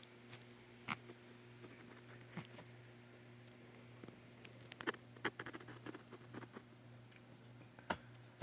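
A cat scuffling while it play-attacks and bites a person's hand: scattered soft taps and scratchy clicks, busiest in the middle, over a steady low hum.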